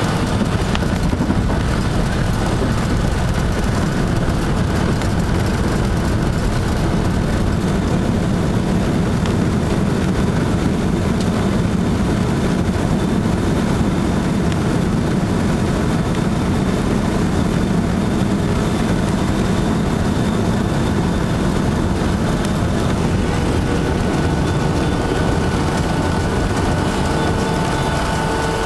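Steady cabin noise inside a Boeing 757-200 on the ground after landing, a low rumble from its twin jet engines. A faint steady whine comes in near the end.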